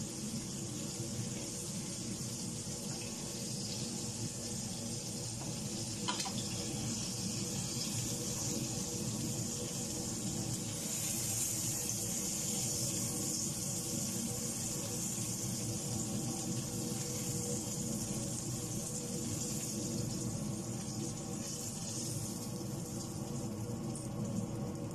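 Food sizzling in hot oil in a wok, a steady hiss that grows louder about eleven seconds in as the pieces are stirred with chopsticks. A single click sounds about six seconds in.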